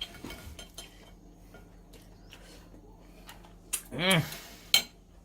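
Cutlery clicking against plates in a string of light, scattered clicks while eating. About four seconds in there is one short vocal sound.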